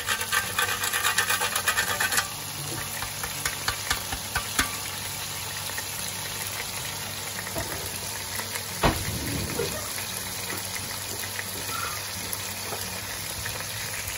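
A whole spice rasped on a fine metal grater over the pan, quick strokes for about the first two seconds. Then chicken, tomatoes and spices sizzling steadily in oil in a wok, with a single knock about nine seconds in.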